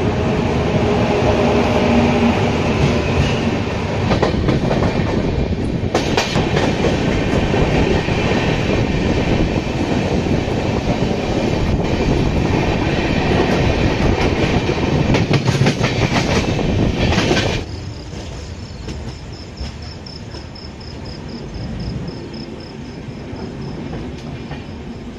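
Express passenger train running on the rails, the wheels clacking over rail joints. The noise is loud for about two-thirds of the time, then drops suddenly to a quieter rumble.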